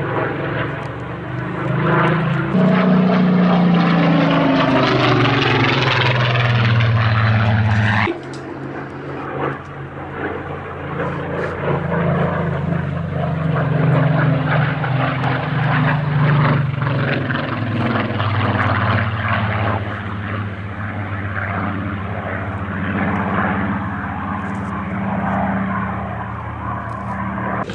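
Spitfire's V12 piston engine in a low fly-past, its pitch sliding down as it passes over. About eight seconds in the sound drops suddenly, and the engine then runs on steadily, swelling and easing as the aircraft manoeuvres.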